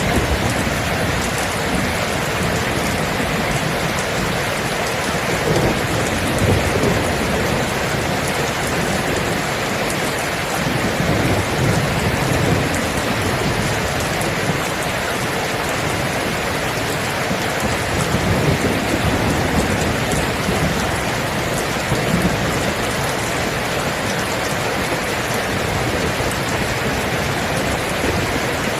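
Steady, heavy rain with low rumbles of thunder swelling up a few times.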